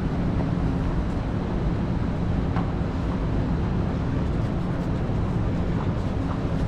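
Strong wind buffeting the microphone over the steady rumble of downtown street traffic.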